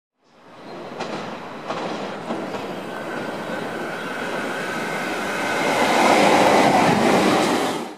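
NSW TrainLink V-set double-deck electric intercity train approaching and running past along the platform, growing steadily louder. Its wheels click over rail joints a few times in the first couple of seconds, and a thin steady whine runs under the rumble. The sound cuts off suddenly at the end.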